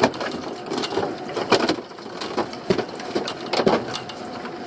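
Irregular knocks and clatter of fishing gear being handled on a boat's deck, over the steady hum of the boat's engine running.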